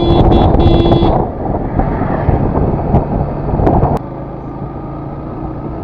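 A song cuts off about a second in, leaving the running noise of a Yamaha FZS V3 motorcycle's single-cylinder engine on the move. About four seconds in it drops quieter to a steady low engine hum.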